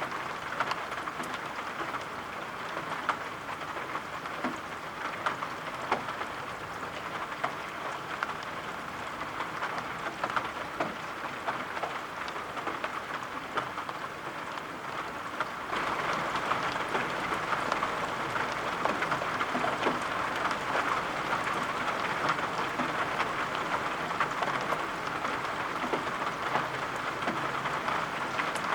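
Steady rain falling, with scattered sharp drop taps through the hiss. A little past halfway it gets louder and fuller, and stays so.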